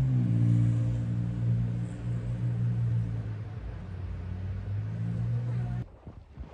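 A vehicle engine idling, a steady low hum that shifts slightly in pitch just after the start and cuts off suddenly near the end.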